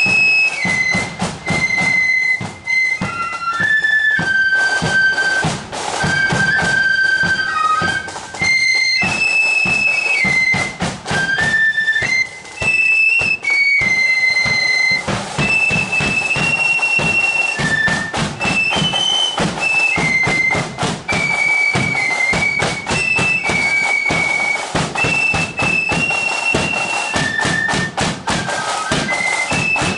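A marching flute band playing a tune: massed flutes carry a high melody over steady side-drum and bass-drum beats.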